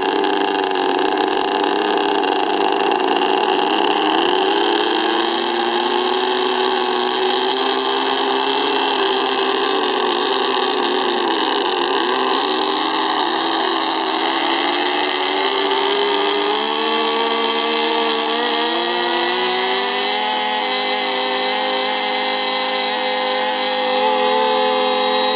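Twin propeller motors of a 1/12-scale RC P-38 Lightning model aircraft running, a steady buzzing drone whose pitch wavers and then climbs noticeably about two-thirds of the way through before holding higher.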